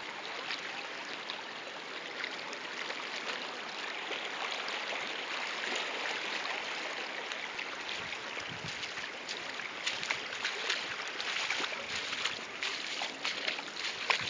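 Floodwater rushing steadily. Short sharp crackles and splashes come thicker in the second half.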